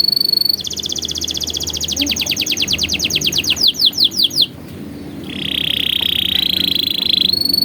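Canary singing: a fast trill of rapidly repeated notes that slows into a handful of loud, downward-swept notes about four seconds in, then after a brief pause a lower buzzing roll.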